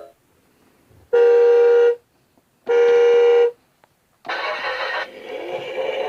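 Electronic horn sound effect from a toddler's battery ride-on police motorbike, two steady beeps of just under a second each, followed by the toy's recorded motorbike engine sound effect, which starts to rev up in pitch near the end.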